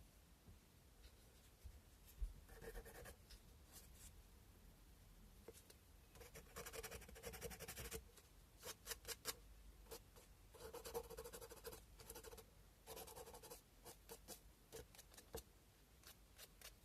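Cow bone being hand-sanded with sandpaper: faint bursts of rapid scratchy strokes, with single short scrapes between them.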